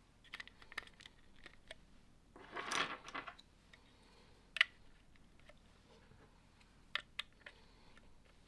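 Plastic Lego pieces handled and clicked together: scattered light clicks, a short rattling shuffle of loose pieces about two and a half seconds in, a sharp snap near the middle, and two quick clicks about a second and a half before the end.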